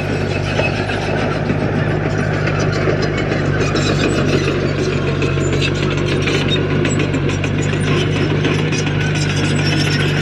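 Large diesel engine of a bulldozer running steadily, with a constant rattling clatter over it.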